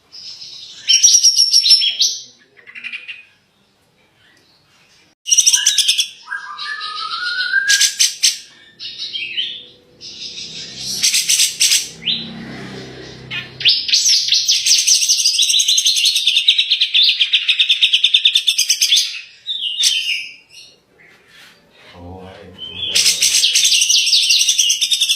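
A songbird singing loud, fast, high-pitched trills and rattling phrases in bursts with short gaps between them. There is a rising whistled note early on, and a long unbroken rattling run in the second half.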